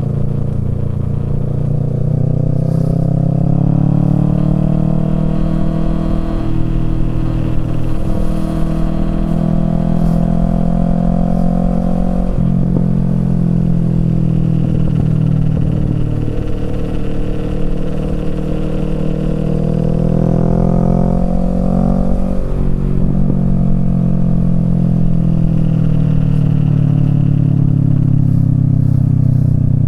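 Kawasaki Z650's parallel-twin engine through a Yoshimura Alpha exhaust, pulling hard under way. Its pitch climbs and then drops sharply about four times, and it falls away gradually near the end as the throttle eases.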